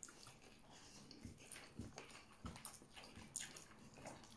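Faint close-up chewing of a mouthful of rice and chicken adobo, with scattered soft clicks and ticks.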